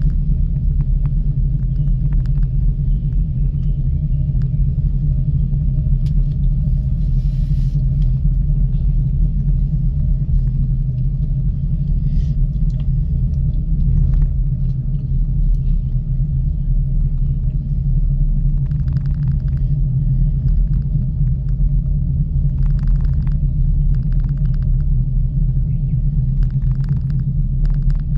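Steady low rumble and hum of a ropeway gondola in motion, heard from the cabin, with faint light rattles now and then.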